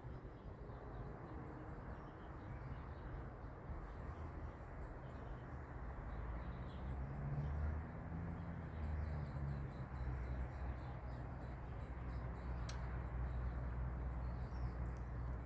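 Faint birds chirping and calling over a steady low rumble that swells briefly midway, with one sharp click about three-quarters through.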